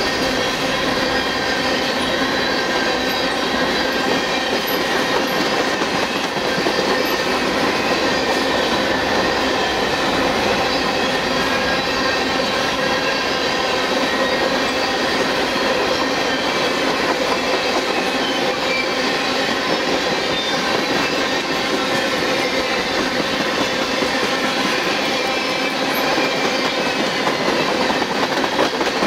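Freight train of covered hopper cars rolling past at close range: a steady, loud rolling noise of steel wheels on rail with continuous high ringing tones over it.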